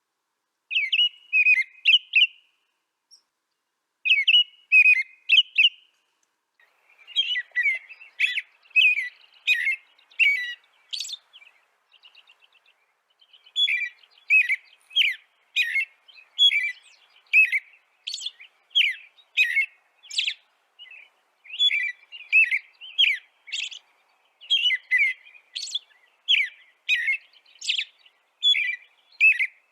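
A bird chirping in quick runs of short, high notes. There are pauses between the first few runs, and from about halfway through the chirping is almost continuous.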